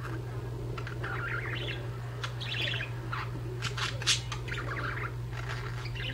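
Budgerigars chirping and warbling in quick repeated bursts, with a sharper, louder chirp about four seconds in, over a steady low hum.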